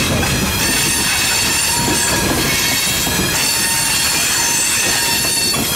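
Freight train of open hopper cars rolling past, the wheels rumbling steadily on the rails with a continuous high-pitched squeal from the wheels.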